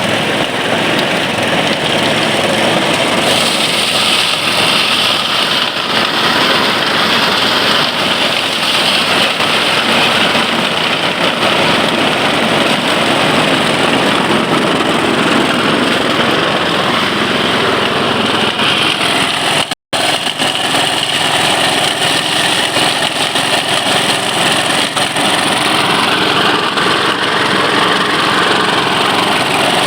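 Rice threshing machine running steadily, its small engine and threshing drum making a loud, continuous mechanical noise, broken once by a moment's silence about twenty seconds in.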